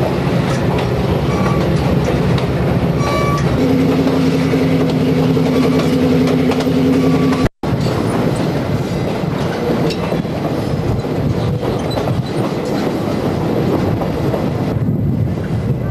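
Diesel-hauled passenger train running along the track, heard from on board: a continuous rumble and rattle of wheels and cars, with a steady low hum through the first half. The sound drops out for an instant about halfway.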